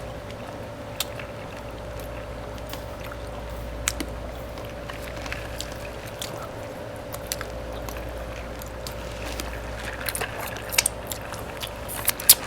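Close-up mukbang eating sounds: chewing and biting into food, with scattered small clicks and taps, several in quick succession near the end, over a faint steady hum.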